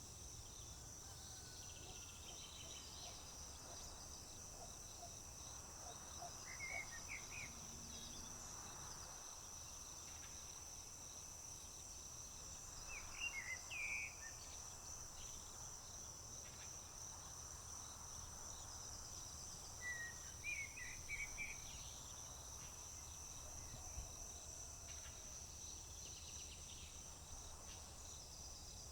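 Crickets chirping in a steady, unbroken high trill. Three times a bird breaks in with a short burst of song.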